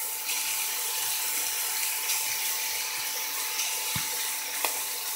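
Chopped onions and mushrooms sizzling steadily in oil in a frying pan as raw ground beef is spooned in, with a few faint clicks from the spoon.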